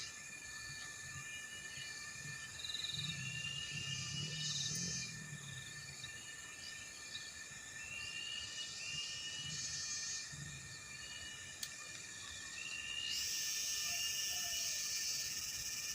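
Outdoor ambience of insects, with steady high-pitched drones and repeated bursts of buzzing, while a small bird gives short rising chirps every second or two. Soft low sounds come a few seconds in and again near the middle.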